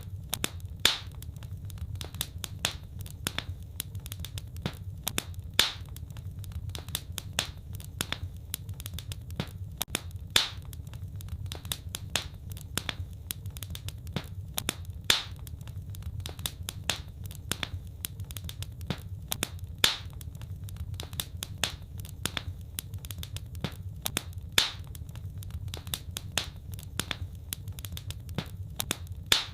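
Wood fire crackling: irregular sharp snaps several times a second, with a louder pop every five seconds or so, over a steady low rumble of the burning.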